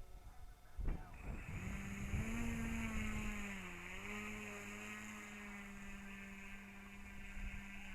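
Electric RC airplane's brushless outrunner motor spinning a 13x8 propeller with a steady whine. It starts about a second and a half in, rises slightly, dips briefly near four seconds, then holds an even pitch. Low wind rumble on the microphone runs underneath.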